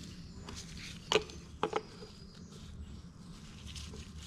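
Two short sharp clicks, about half a second apart, from parts being handled during filter work, over a faint steady background hiss.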